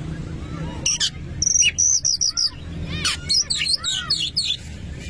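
Oriental magpie-robin (kacer) singing a loud, varied song: a quick run of high repeated notes, then a jumble of whistles and up-and-down slurred notes.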